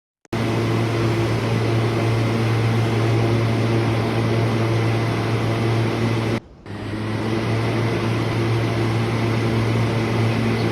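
New York City subway train: a steady, loud hum with a low drone and running noise, without rising or falling. It starts suddenly right at the outset and drops out briefly about six and a half seconds in.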